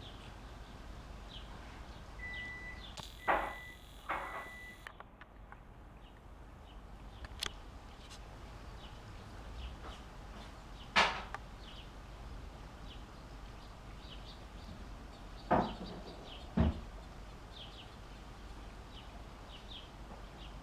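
Small birds chirping repeatedly in short, faint calls, with five loud knocks or thumps: two close together about three and four seconds in, one near the middle, and two more near the end.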